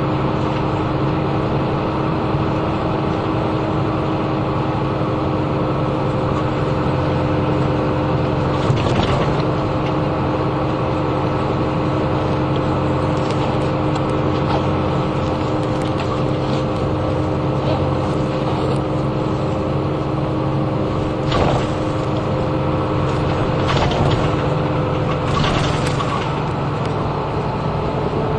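Inside a moving route bus: the engine and road noise drone steadily, with a constant hum carrying two held tones. A few brief knocks or rattles come about a third of the way in and three more near the end.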